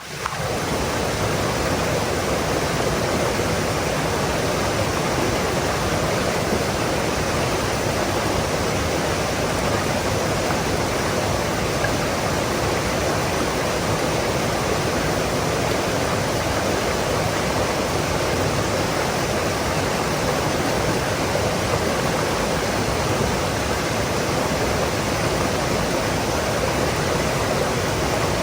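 Stream water rushing and babbling over rocks, a steady, even flow with no pauses.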